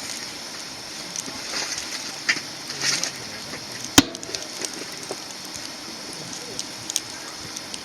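Wood fire crackling, with scattered sharp pops and one loud snap about four seconds in. Faint distant conversation sits underneath.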